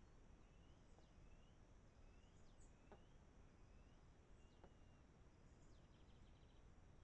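Near silence with faint bird calls: short whistled notes about once a second, some sliding down from high, and a brief rapid trill near the end.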